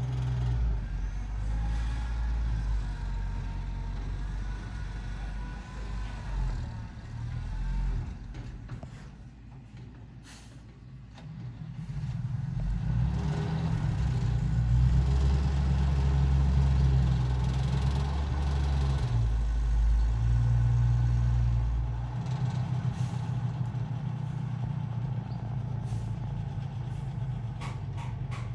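ZIL-130 truck's 6.0 L V8 engine running. It dies down about nine seconds in, then runs louder for about ten seconds before settling to a steadier note.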